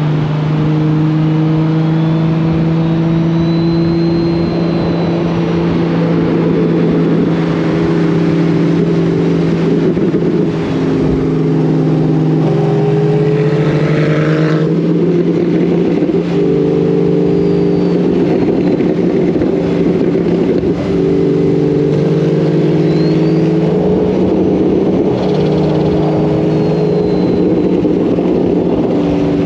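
Nissan Skyline GT-R R34's big-turbo RB26 inline-six running at a steady engine speed while cruising, its engine note shifting slightly now and then as the throttle changes.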